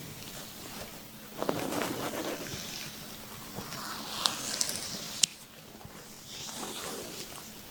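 A woman's stomach rumbling and gurgling as her abdomen is massaged with olive oil, the gurgle welling up a little over a second in and then fading. A few sharp clicks come around the middle.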